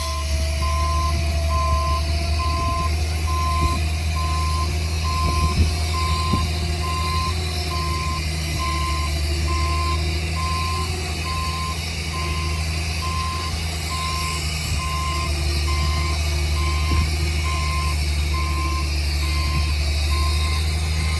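A heavy construction vehicle's reversing alarm beeping steadily about once a second, over the low, steady drone of its diesel engine.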